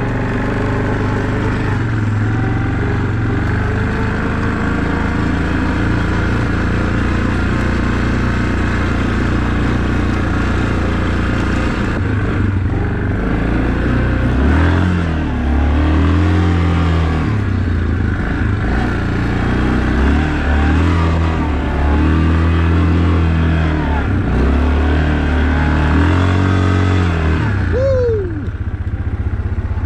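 ATV engine running on a snowy trail, steady at first. From about halfway it revs up and down in a series of swells, with a quick fall in pitch near the end.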